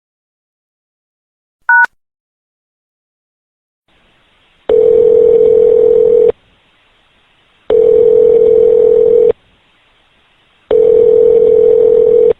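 Telephone call audio: a single short two-tone keypad (DTMF) beep, then faint phone-line hiss and three long, steady ringing tones about a second and a half each, a few seconds apart. This is the ringback tone of an outgoing call ringing at the other end.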